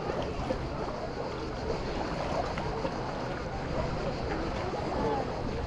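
Beach ambience: a steady wash of wind and small waves, with faint voices of people near the end.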